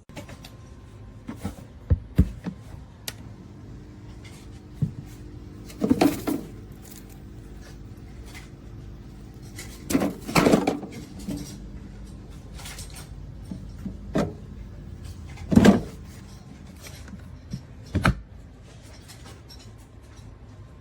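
A handful of separate knocks and clunks at irregular intervals, like objects being handled or set down, over a steady low hum.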